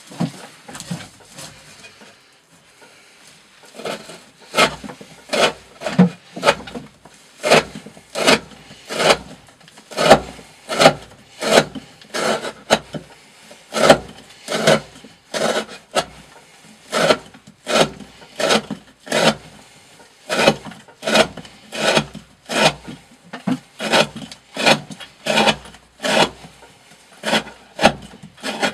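D2 steel knife blade slicing through 20 mm rope, cut after cut in a steady rhythm a little faster than once a second, after a few sparser, quieter strokes at the start. Repeated test cuts to measure how long the 40° V edge keeps cutting.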